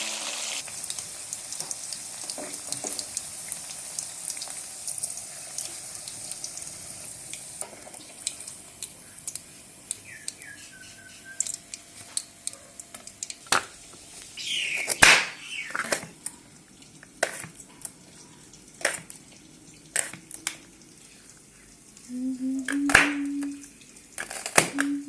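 Food sizzling in a pan, with scattered clinks and knocks of a utensil against the pan.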